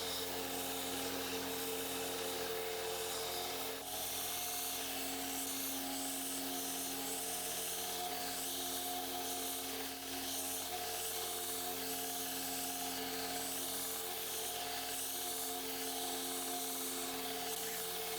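A small electric abrasive tool grinding or polishing a steel knife blade, running steadily with a constant motor tone under a scratchy rubbing.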